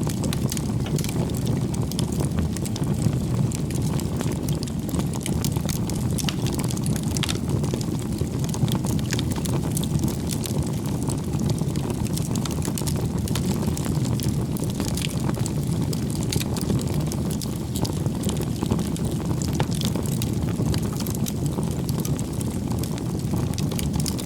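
Firewood bonfire burning: a steady low rumble of flames with frequent small crackles and pops from the burning wood.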